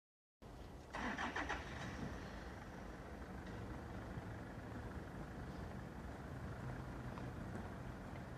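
A motor vehicle's engine running steadily as a low rumble, with a louder, harsher burst of noise about a second in.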